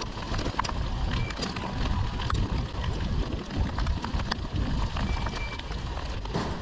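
Street traffic noise with wind rumbling on the microphone, broken by scattered sharp clicks.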